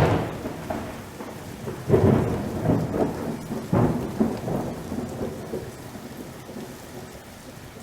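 Thunder rumbling over steady rain: a loud roll at the start and two more about two and four seconds in, each dying away, the rumbling fading over the last few seconds.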